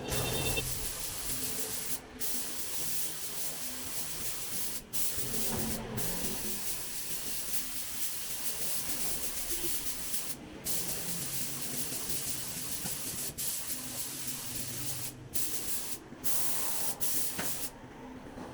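Paint being sprayed, a steady hiss in long passes, cut by several brief stops where the spray is released and restarted.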